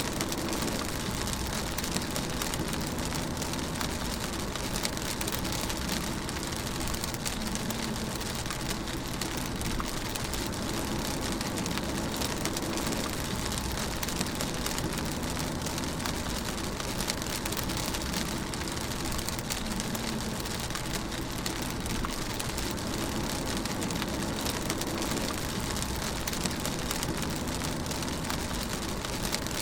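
Rain pattering on a moving car, heard from inside the cabin, over a steady low rumble of the car's engine and tyres on the road. The rain's drops make many fine ticks, and the mix stays even throughout.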